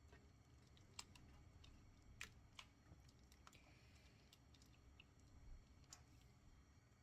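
Near silence broken by several faint, irregular light clicks and taps, the sharpest about one and two seconds in.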